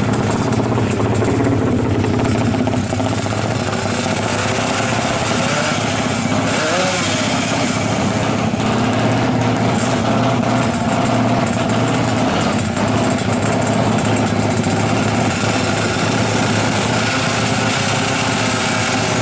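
Yamaha RX-King drag bike's two-stroke single-cylinder engine, fitted with a small magneto rotor, idling steadily.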